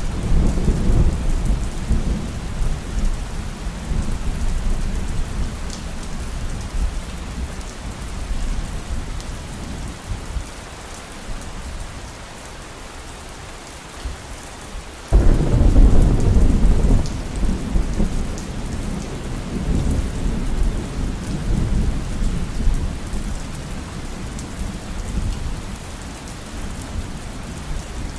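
Steady heavy rain with rolling thunder. One rumble fades away over the first several seconds, and a second crash of thunder breaks in suddenly about halfway through and rumbles on as it slowly dies down.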